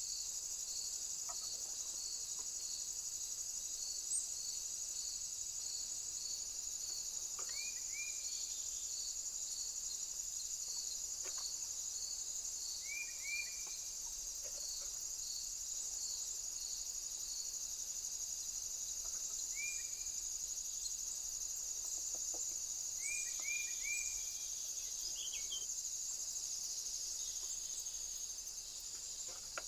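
Steady high insect chorus, with a repeating chirp about twice a second through most of it. A bird gives a short rising call now and then, five or six times.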